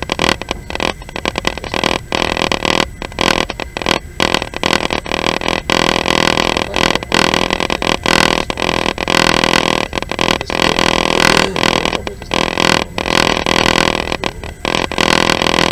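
Passenger train running: loud rolling noise with wind rushing at the open window, choppy, with many brief dips in level.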